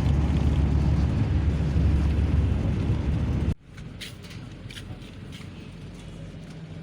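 Steady low rumble of a road vehicle in motion, which cuts off abruptly about halfway through. A much quieter background with a few faint clicks follows.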